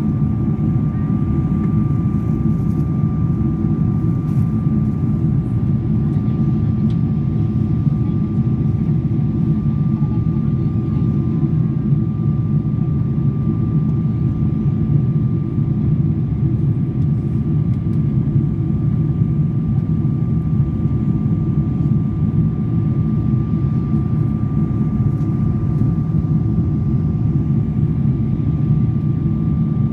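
Steady cabin noise of an airliner in flight: a constant low roar of engines and rushing air, with a thin steady tone held above it.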